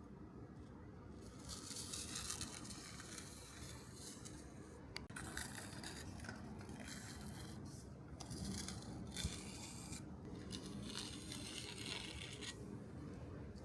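Faint repeated scraping strokes, each lasting one to two seconds, with short pauses between them, over a low steady hum.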